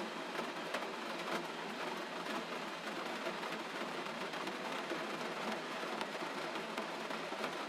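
Gentle rain falling steadily: an even hiss with many small scattered drop ticks.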